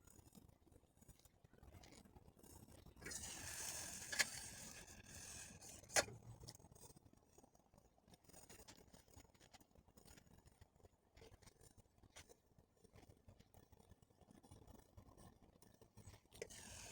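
Mostly near silence, broken by a brief rustle about three to five seconds in and two sharp clicks, the louder one about six seconds in.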